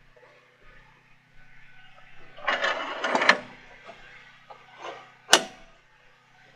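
A scraping clatter lasting about a second, then a single sharp knock a couple of seconds later, over a steady low engine-like hum.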